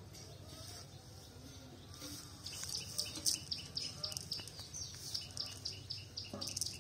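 Small birds chirping, a quick run of short, high, falling notes that grows busier about two and a half seconds in, over a steady low hum of background noise.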